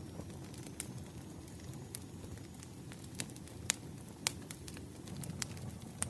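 Campfire burning: a steady low rush of flames with scattered sharp crackles and pops from the wood, the loudest two a little past halfway.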